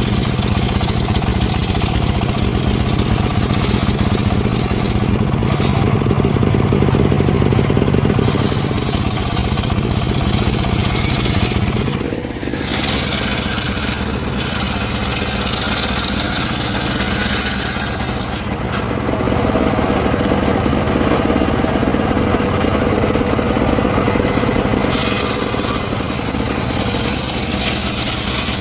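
An engine-powered wood saw running steadily without pause, its tone shifting about twelve seconds in and again a few seconds later.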